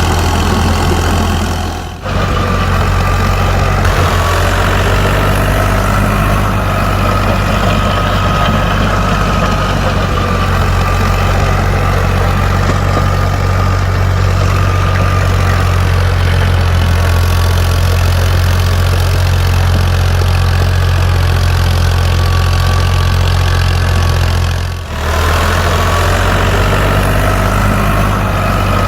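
Mini tractor's motor running steadily: a low hum with a thin whine above it. It dips briefly about two seconds in and again near the end.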